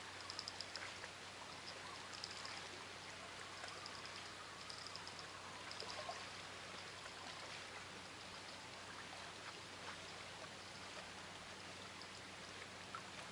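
Faint, steady rush of flowing river water, with short high chirps repeating during the first half.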